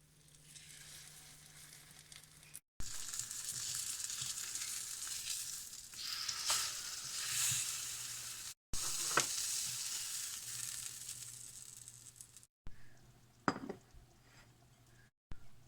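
Pork chops sizzling in a frying pan: a steady, loud frying hiss in a few separate stretches, with a few sharp clicks.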